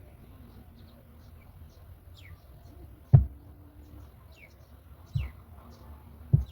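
Faint, thin bird chirps, each sliding down in pitch, repeated every second or so. Three loud, low thumps come about three, five and six seconds in.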